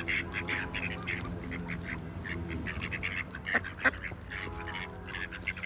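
A crowd of birds calling: many short, quick calls overlapping one another.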